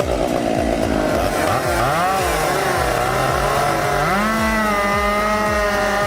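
Two-stroke chainsaw engine revved up and down several times, then held at a steady high speed from about four seconds in.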